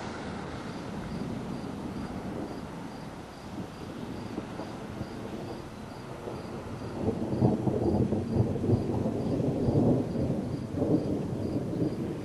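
Thunderstorm rumble, a steady low noise that swells into louder, uneven rumbling about seven seconds in.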